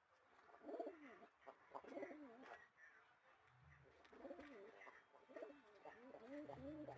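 A dove cooing softly, a series of low, rising-and-falling coos in several bouts with short gaps between them.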